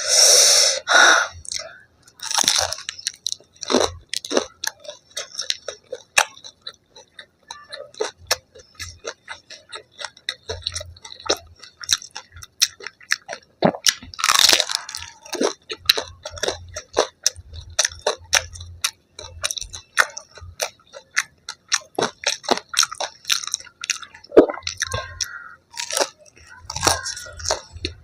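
Close-miked chewing and crunching of fried food, a dense run of sharp crunchy clicks with a couple of louder bites at the start and about halfway through.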